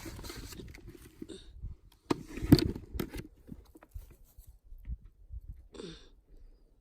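Scattered crunching and crackling of footsteps and handling in forest undergrowth, loudest in a cluster of sharp cracks about two and a half seconds in.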